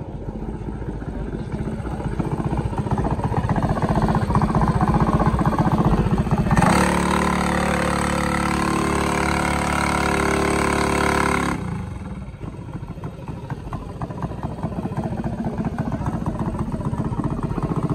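Vehicle engine running and building in loudness. For several seconds in the middle it holds a loud, steady high pitch, then drops suddenly back to a lower, rougher running sound.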